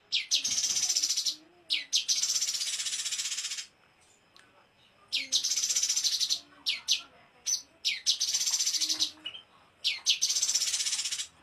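A small songbird singing rapid buzzy trills, about five phrases, each opened by one or two sharp rising notes and then a fast high rattle lasting a second or two. This is the rapid 'tembakan' trill style used as master song to train cage birds.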